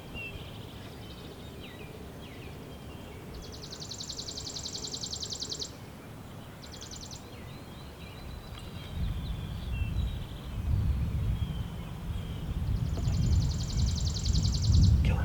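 Outdoor ambience: small birds singing, with a high, rapid buzzing trill twice, then wind buffeting the microphone as a low rumble that builds from about nine seconds in and becomes the loudest sound.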